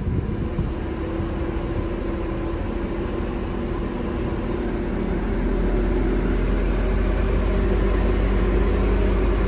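Jeep Liberty's six-cylinder engine being revved, its steady hum growing louder over the first half and then holding at the higher speed. It runs smoothly with no misfire, after a faulty ignition coil was replaced.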